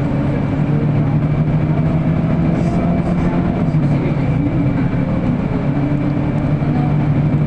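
Inside a moving city bus: a steady engine hum with road noise and light rattles from the cabin.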